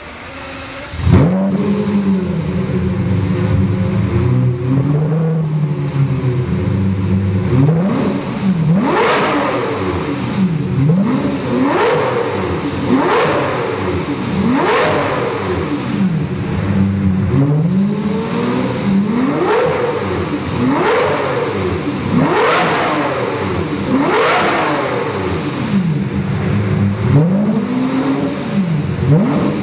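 Lamborghini Murcielago V12 through a Fabspeed Maxflo exhaust: the engine flares up about a second in and runs at idle, then from about eight seconds in is revved again and again, each rev a quick rise and fall in pitch, about ten in all, loud.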